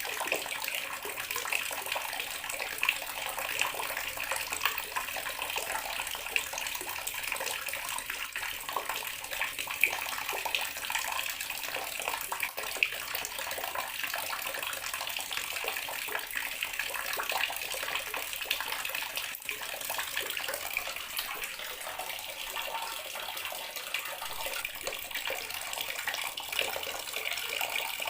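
Water running steadily from a tap into a bathroom sink, a constant splashing stream with small irregular spatters.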